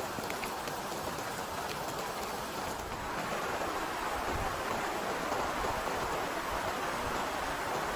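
Heavy rain falling steadily, with a few separate drops ticking at first. It grows louder about three seconds in.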